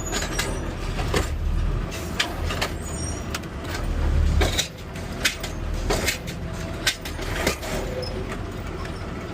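Garbage truck engine running as its automated lifting arm raises and shakes a cart, with repeated metal knocks and clanks. The engine swells about four seconds in, then drops back.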